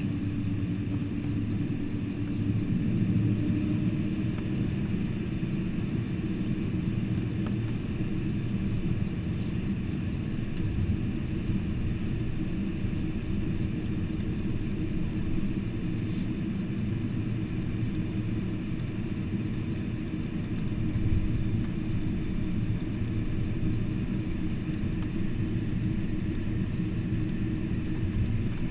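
Steady low rumble and hum in the passenger cabin of a Boeing 747-400 on the ground after landing.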